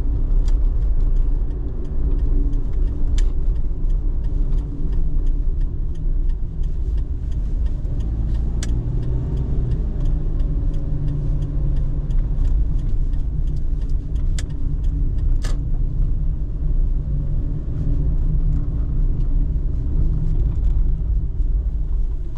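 Car driving, heard from inside the cabin: a steady low rumble of engine and road noise with a few faint clicks.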